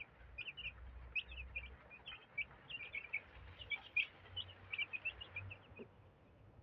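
A brood of three-week-old chicks peeping, many short high chirps overlapping quickly, stopping near the end.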